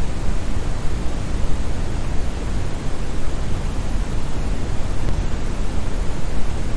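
Synthetic brown noise: a steady, deep hiss with most of its weight in the bass, like a distant waterfall.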